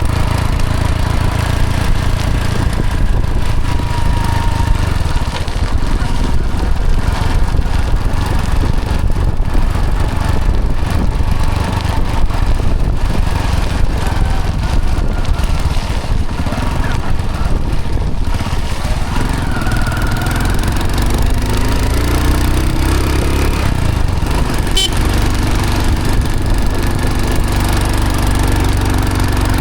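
Hero Honda CD100's single-cylinder four-stroke engine running steadily under way, its note rising in pitch about twenty seconds in as it pulls harder.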